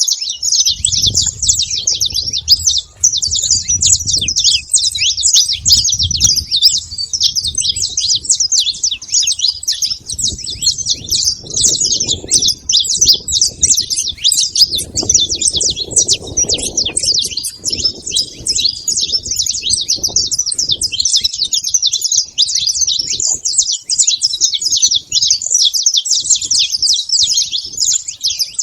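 A flock of saffron finches chirping and calling together at a feeding spot, a dense, continuous chatter of many overlapping high chirps. A low rumble comes and goes underneath.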